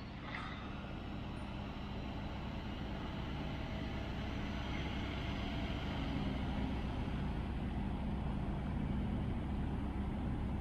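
Steady low rumble of a mountain bike being ridden, tyre noise mixed with wind on the microphone, slowly growing louder.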